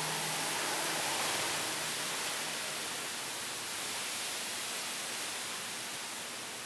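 Heavy downpour with strong wind: a steady rushing hiss that swells slightly in the first couple of seconds and then eases a little.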